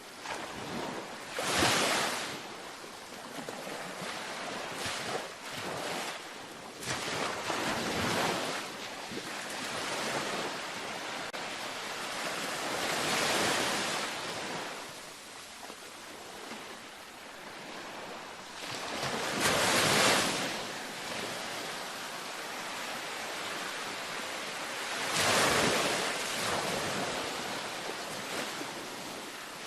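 Ocean waves breaking and washing up a beach, five surges that each swell and fade over a second or two, with a steady hiss of surf between them.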